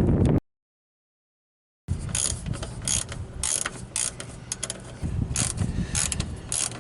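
Hand ratchet wrench being worked on a truck battery cable terminal nut: short runs of clicking, stroke after stroke at an uneven pace, after a brief dead-silent gap.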